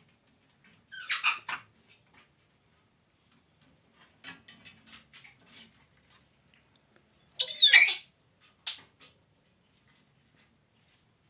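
Pet parrot squawking. There is a harsh call about a second in, a scatter of soft clicks a few seconds later, then the loudest squawk near the end with a short chirp right after it.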